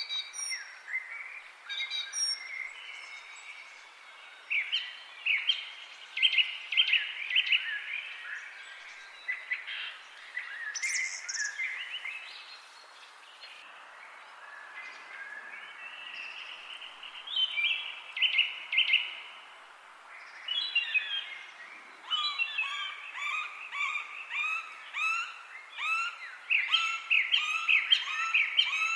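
Several songbirds chirping and singing, their calls overlapping over a faint background hiss. About two-thirds of the way through, a fast run of short repeated chirps takes over.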